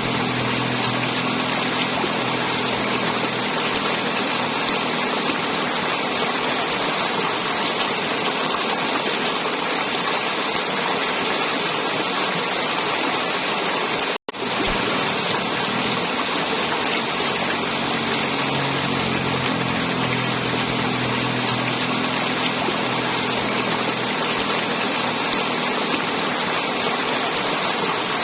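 River water flowing and gurgling steadily, a dense even rush, with a faint low hum underneath. The sound cuts out for an instant about halfway through.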